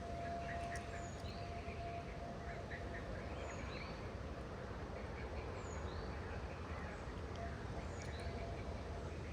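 Birds calling outdoors: short chirps repeated about every second, with quieter chatter between them, over a steady background rush. A steady high hum sounds for the first couple of seconds and then fades.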